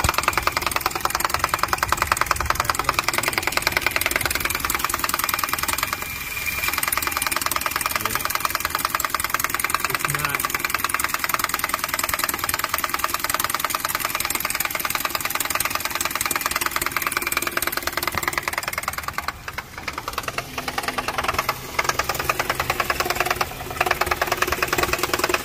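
Car engine running with a fast, steady mechanical knocking from the belt-driven AC compressor clutch, which the mechanic traces to a damaged clutch with a piece missing rather than to the engine itself.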